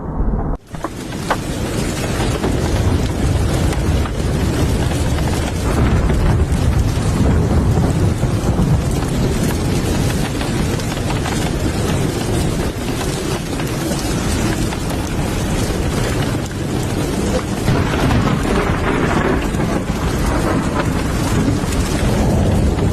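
Heavy, steady rain with deep rolling thunder rumbling underneath.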